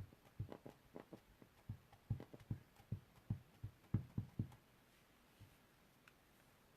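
Rubber stamp being tapped repeatedly onto an ink pad to ink it: soft dull taps, about three to four a second, stopping after about four and a half seconds.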